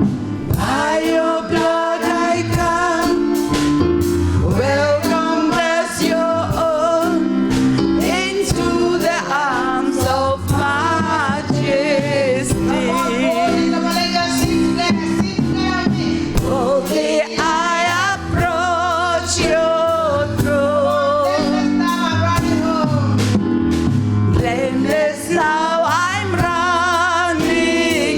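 Live gospel music: a singer with strong vibrato over a band with bass, chords and a steady beat.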